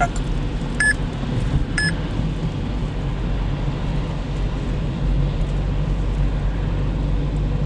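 Steady low road and engine rumble heard from inside a moving car. Two short electronic beeps come about a second in and again a second later.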